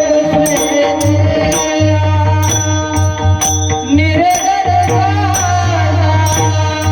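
Devotional bhajan music: a singing voice holding and gliding between long notes over a sustained drone, with drum and jingling percussion keeping a steady beat.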